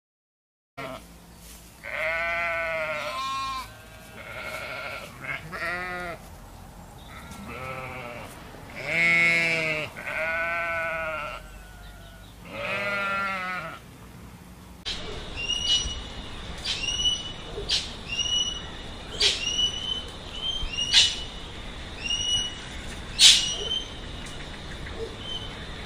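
Sheep bleating, about seven wavering calls over the first half. Then, from about fifteen seconds in, a bird giving short falling chirps mixed with sharp clicks.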